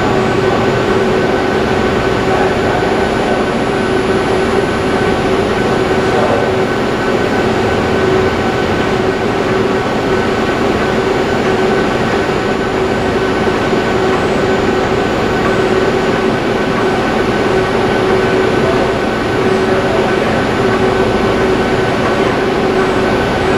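Steady machine noise of a robotic welding cell running: a constant loud hiss with steady humming tones, unbroken throughout.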